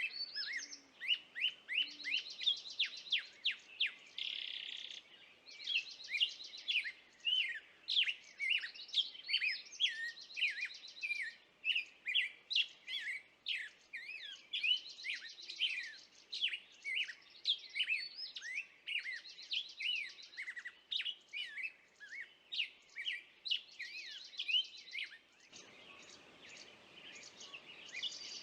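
Small songbirds singing: rapid, high, sweeping chirps mixed with short buzzy trills, coming in phrases every couple of seconds. A low background hiss comes up near the end.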